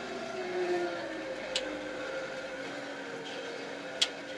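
Kioti RX7320 tractor's diesel engine running steadily under the cab, its pitch drifting slightly. Two sharp clicks cut through it, one about a second and a half in and a louder one near the end.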